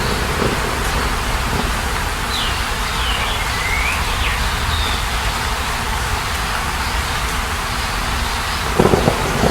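Outdoor nature ambience: a steady rushing noise with a low rumble, and a few short chirping bird calls about a quarter to halfway through.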